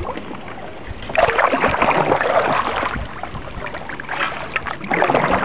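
Kayak paddle strokes splashing and dripping in the water: one long burst of splashing from about a second in, then two shorter ones near the end.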